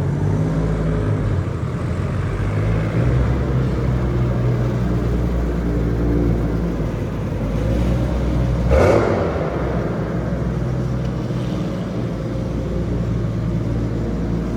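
Car engine running steadily, with one short, loud rush of noise about nine seconds in.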